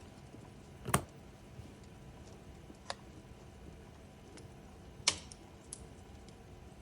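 Wood fire crackling: irregular sharp pops over a faint steady hiss, two louder snaps about a second in and about four seconds later, with a few fainter ones between and after.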